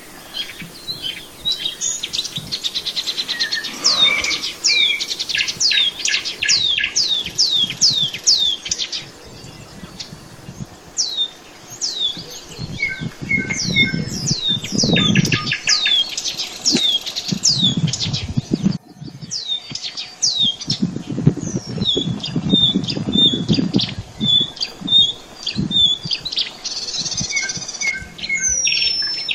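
Songbirds singing: runs of quick, falling high whistled notes, about two a second, mixed with shorter chirps. A low rumble comes and goes underneath.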